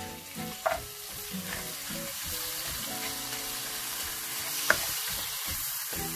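Frozen chopped tomatoes sizzling in hot oil and spice paste in a non-stick wok, stirred with a spatula. The spatula clicks against the pan now and then, with a sharp tap about three-quarters of the way through.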